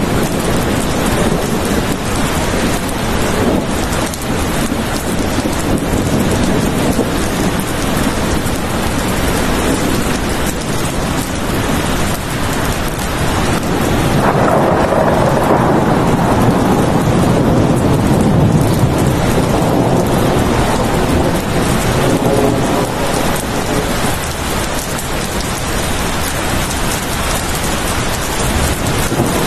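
Steady heavy rain, with a long low roll of thunder swelling up about halfway through and dying away over several seconds.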